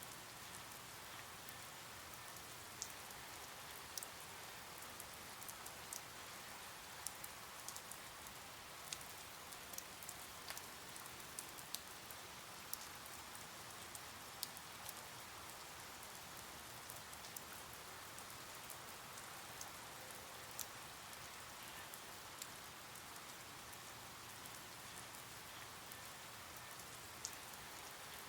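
Rain falling steadily, a soft even hiss with scattered sharp ticks of single drops, most frequent in the first half.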